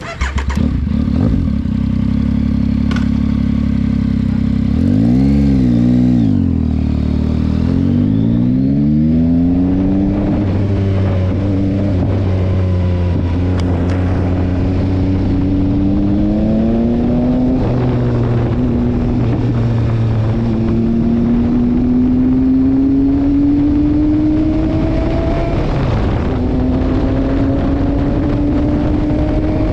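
Yamaha Tracer 9 GT's 890 cc inline three-cylinder engine idling, revved once briefly about five seconds in. It then pulls away and accelerates, the pitch climbing and dropping back with each of several upshifts.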